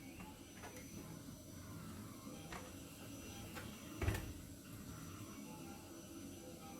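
Faint handling noises from a hard plastic RC4WD Blazer scale truck body: a few light clicks and one louder knock about four seconds in.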